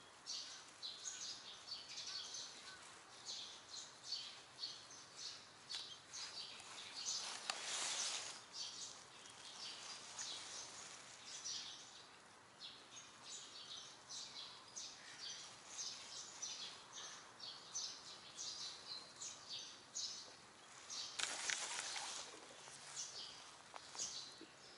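Small birds chirping over and over in short, high notes. Twice, a swell of rushing noise rises and fades over a second or two.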